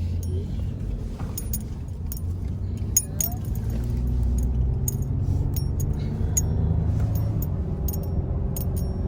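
Steady low road and engine rumble inside a moving Ford F-150 pickup's cabin, with irregular light clinks and rattles, like keys jangling, scattered through it.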